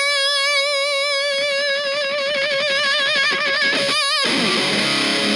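Electric guitar through a Kokko KH8 high-gain distortion pedal and Fender Blues Junior amp. A single high lead note is held with wide vibrato for nearly four seconds, showing a very long sustain. After a brief second note, lower and fuller distorted playing follows.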